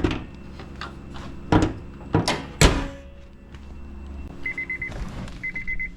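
Several thuds as the bonnet of a 2007 Honda CR-V is shut, the loudest about two and a half seconds in. From about four and a half seconds, an electronic beeping comes in short rapid groups about once a second.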